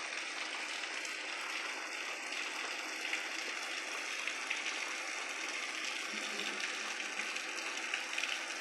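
Heavy rain falling steadily: an even hiss with faint scattered ticks of drops.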